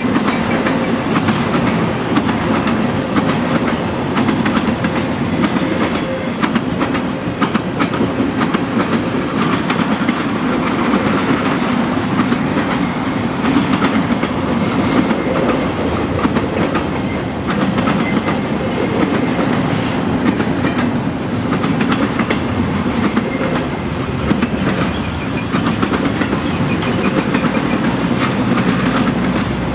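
Intermodal freight cars rolling past at steady speed: a continuous rumble of steel wheels on rail, with rapid clicks as the wheels cross rail joints.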